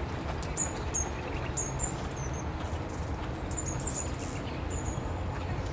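Small birds chirping: about a dozen short, high chirps, some in quick runs, over a steady low background rumble.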